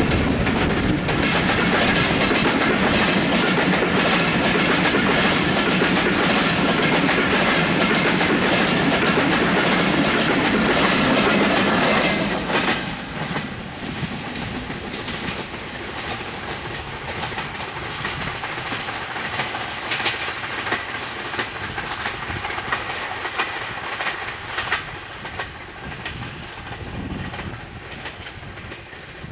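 Passenger train coaches passing close at speed, wheels clacking over rail joints. About twelve seconds in the sound drops suddenly to a quieter, more distant train running with scattered clacks, fading toward the end.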